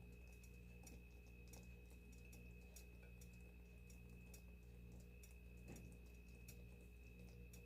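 Near silence: chili and hot dogs simmering in a covered frying pan, with faint, irregular small ticks and pops a few times a second over a steady low hum.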